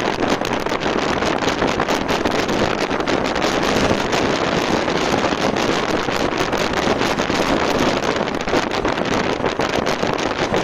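Wind buffeting the microphone of a Barton B-MAX 125 cc scooter riding at full throttle at speed, a steady loud rush with constant flutter that covers the engine's sound.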